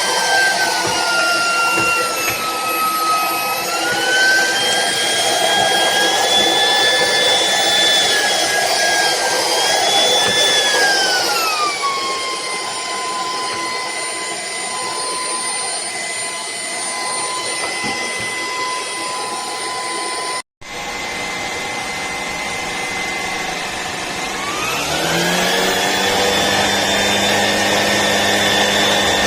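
Shark PowerDetect cordless stick vacuum running with a loud motor whine whose pitch drifts up and down, then settles to a steady lower tone after about twelve seconds. It cuts out for an instant about twenty seconds in, and near the end the whine climbs to a higher, fuller pitch as the motor speeds up.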